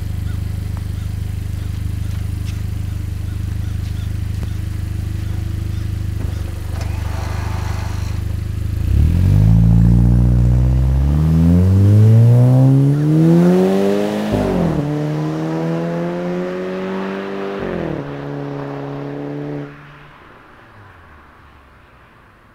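2006 VW Passat B6's turbocharged 2.0T four-cylinder with a 3-inch catless downpipe and K&N drop-in filter idling steadily, then pulling away hard about nine seconds in. The exhaust note rises through one gear, drops at a shift, rises again, shifts once more, and fades quickly as the car drives off.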